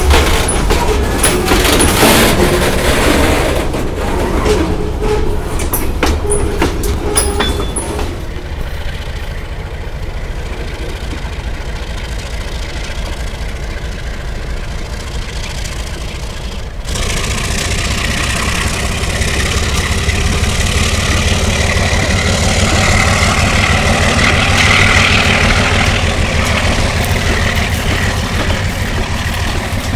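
Alco RS-11 diesel locomotive and its train on the move, with wheels clicking over rail joints in the first several seconds. After an abrupt cut about 17 seconds in, the locomotive's diesel engine runs louder with a steady low throb and a high whine swelling near the end.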